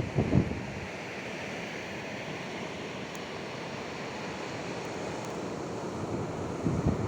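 Sea surf washing in steadily, with wind gusting on the microphone a couple of times.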